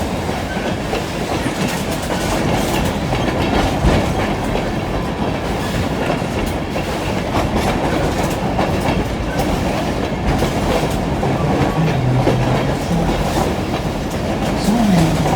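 Passenger train rolling along the track, heard from aboard: a steady rolling noise of the wheels with clickety-clack over the rail joints.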